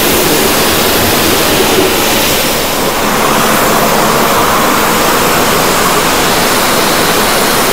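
Pressure washer spraying a high-pressure water jet, a steady loud rushing hiss of water.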